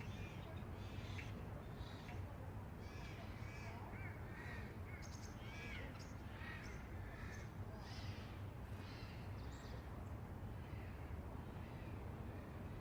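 Birds calling in a rapid run of short calls, several a second, thinning out near the end, over a steady low background rumble.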